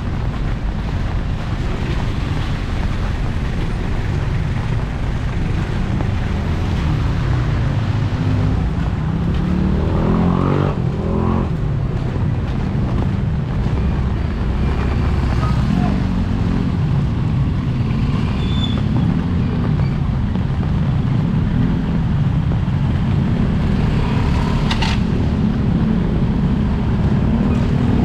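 Steady low rumble of road traffic, with a vehicle engine revving up about ten seconds in and a brief sharp knock near the end.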